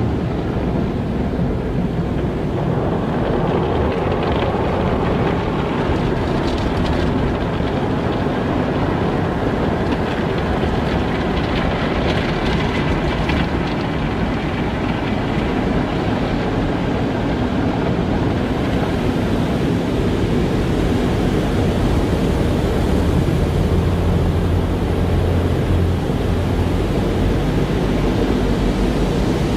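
Automatic car wash running: a steady, dense rumble of machinery and water with no break. A brighter hiss comes and goes through the first half.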